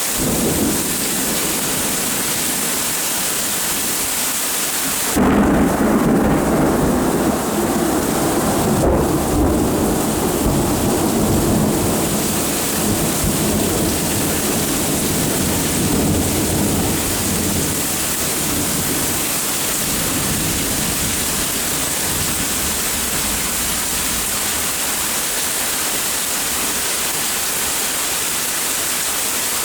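Steady rain with rolling thunder. A faint rumble comes just after the start; about five seconds in, a loud clap breaks into a deep rumble that rolls on and fades away over roughly a dozen seconds.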